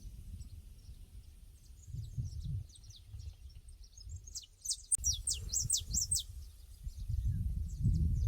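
Pasture ambience: small birds chirping throughout, with a louder run of quick downward chirps about halfway through. Underneath is a low rumble that swells and fades.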